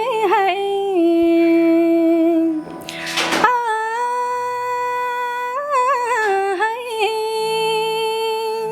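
A woman singing the wordless, drawn-out opening of a Nepali tappa folk song, holding long ornamented notes, with a sharp intake of breath about three seconds in. A faint steady low tone sits underneath.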